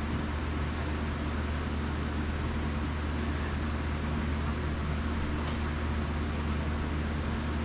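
Steady low machine hum with an even hiss, unchanging throughout, with one faint tick about five and a half seconds in.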